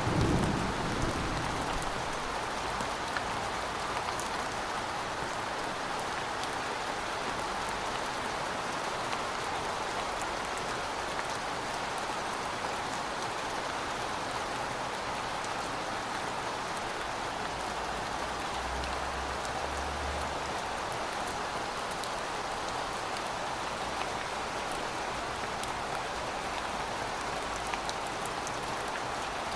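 Steady rain falling, an even hiss with scattered drop ticks, while the last of a thunder rumble dies away in the first second or two.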